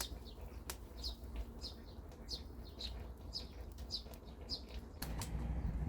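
A bird calling over and over: a steady series of short, high, downward chirps, a little under two a second. A couple of sharp clicks and a low outdoor rumble lie underneath, and the rumble grows louder near the end.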